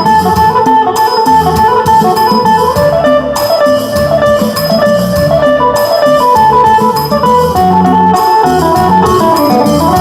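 Isan folk music led by a phin, the plucked northeastern Thai lute, playing a melody over percussion that keeps a steady beat.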